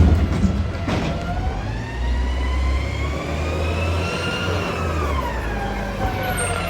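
Garbage truck packing: the diesel engine rumbles as the hydraulic packer pump whines, its pitch rising slowly to a peak and then falling again as the compaction cycle runs. A sharp metallic knock at the very start and another about a second in.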